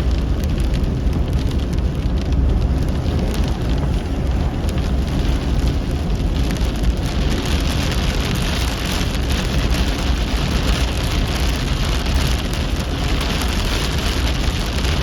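Heavy rain on a car being driven, heard inside the car, over a steady low road and engine rumble. The rain hiss grows stronger about halfway through.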